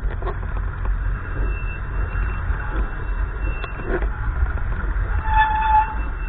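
Gusty wind buffeting the microphone as a steady low rumble, with a short pitched tone sounding once near the end.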